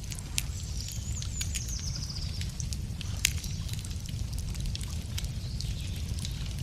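Wood fire crackling, with scattered sharp pops and one louder pop about three seconds in, over a steady low rumble. A small bird sings a short, high, descending trill about a second in.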